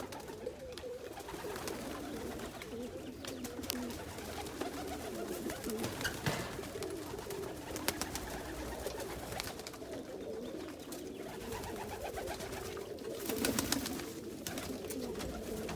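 Domestic pigeons cooing continuously, several birds overlapping, with scattered short clicks and rustles.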